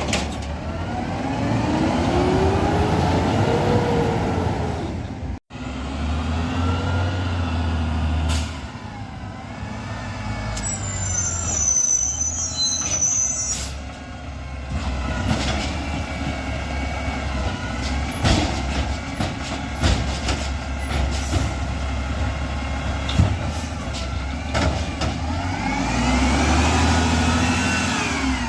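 Garbage truck at work: its diesel engine revs up and falls back again and again, with scattered knocks and clanks. There is a brief break about five seconds in.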